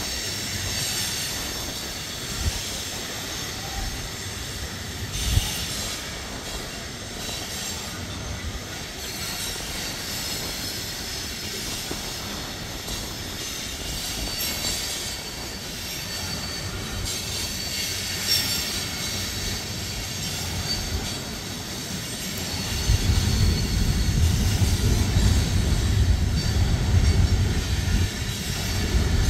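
Freight train hopper cars rolling past with wheels squealing in a high steady whine, and a sharp knock about five seconds in. About 23 seconds in, a heavy low rumble swells in and stays to the end.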